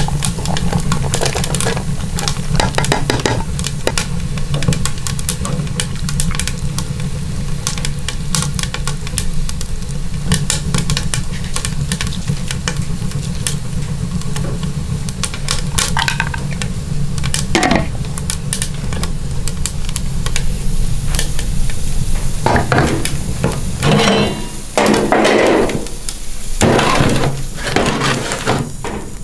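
Chicken and chopped onions sizzling in a wok, with utensils clicking against the pan, and louder pot and lid clatter near the end. A steady low hum runs underneath.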